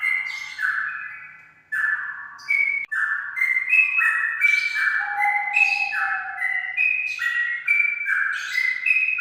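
Straw-headed bulbul (Javanese cucak rawa) singing loud, rich phrases of clear whistled notes that step quickly up and down. The song breaks off for about a second, roughly two seconds in, and then resumes.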